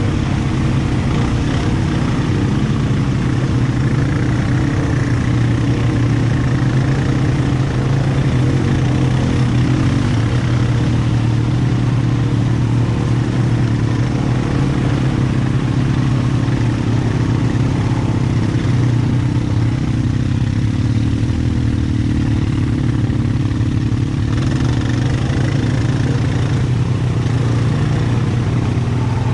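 ATV engine running steadily, a loud even drone with no big changes in revs.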